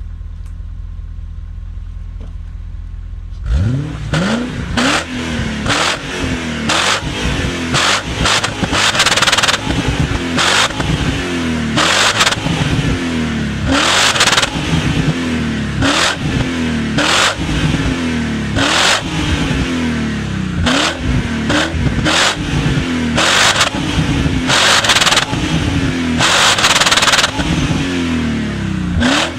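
BMW E34 540i's 4.0-litre V8 through Magnaflow catalytic converters and an Eisenmann rear exhaust, idling steadily, then from about three and a half seconds in revved in repeated quick throttle blips, about one a second, a few held a little longer.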